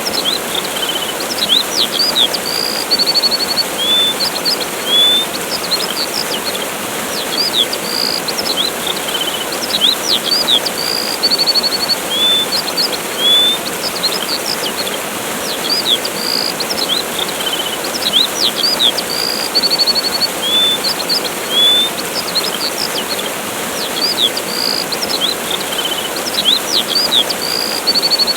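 Steady rushing of a waterfall with small birds chirping over it: short upward-sweeping chirps, quick high notes and brief trills, the same run of calls coming round again about every eight seconds.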